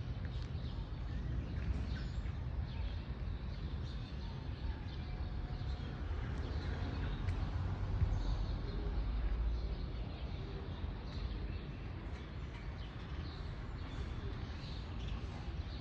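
Small birds chirping in street trees, many short chirps scattered throughout, over a steady low rumble.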